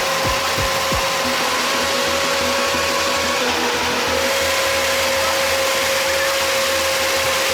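Steady motor noise with a constant high whine, with a few quick falling sweeps in the first second.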